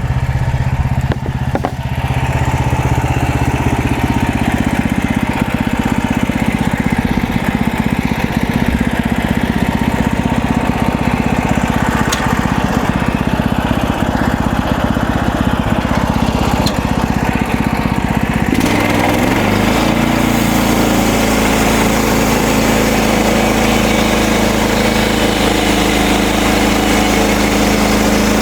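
Gasoline engine of a MechMaxx SM32 portable bandsaw mill running steadily as the mill saws cedar logs into thin slabs; about two-thirds of the way through, the engine's sound changes abruptly and settles into a new steady note.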